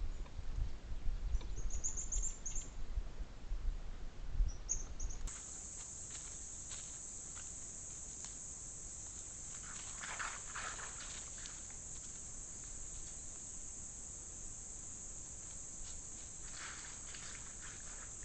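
Insects trilling steadily at a high pitch, starting sharply about five seconds in, with rustling twice over it. The first few seconds hold low rumbling and a couple of brief high chirps.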